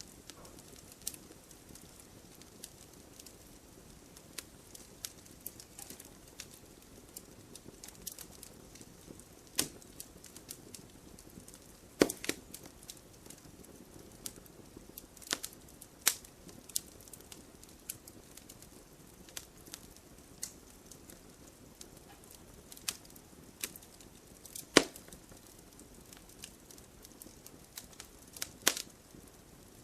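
Firewood burning in a fireplace: a steady low hiss with irregular crackles and several sharper pops.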